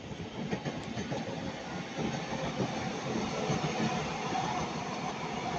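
Class 331 electric multiple unit running past, a steady rumble of wheels on rails that grows a little louder about two seconds in, with a faint steady whine joining near the end.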